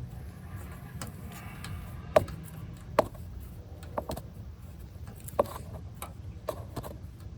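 A wrench clicking and knocking on a brake line fitting in about six sharp, irregularly spaced strikes, over a steady low hum.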